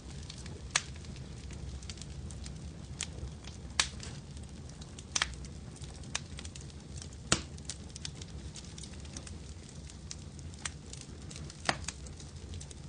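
Wood fire crackling in a fireplace: a steady low rumble of burning with irregular sharp pops and snaps, a few louder ones standing out.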